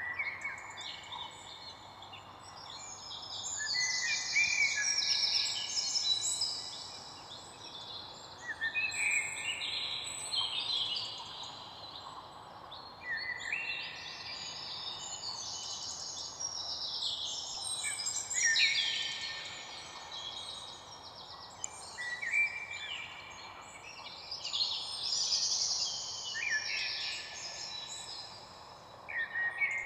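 Several songbirds singing over one another in a dense chorus of chirps and fast trills, with rapid runs of repeated notes coming in waves throughout.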